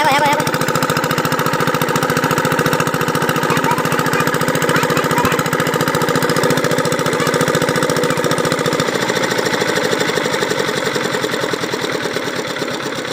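Old diesel engine running steadily under load, driving an irrigation water pump, with a fast, even knocking beat. The low thudding drops somewhat about nine seconds in.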